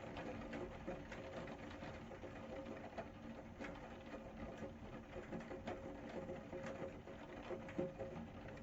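Rain falling, with drops ticking irregularly and quickly on a hard surface over a steady hiss, and a steady low hum underneath.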